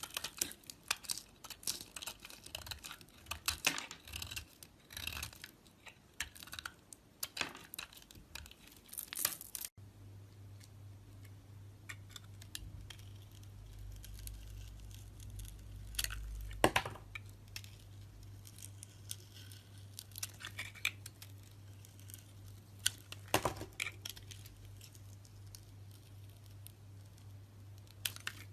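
A bar of soap being carved: crisp scraping and crackling cuts come thick and fast for about the first ten seconds. After that only a few sharp strokes are heard, over a low steady hum.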